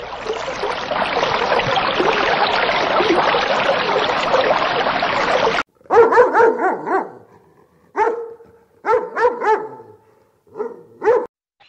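A steady dense noise that cuts off suddenly about halfway through, followed by a dog barking in four short bouts of quick yips.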